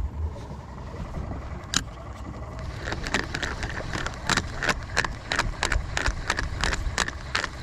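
Fishing reel being cranked while a hooked fish is brought in: a run of sharp, uneven clicks, about two or three a second, starting a few seconds in, over a low steady wind and boat rumble.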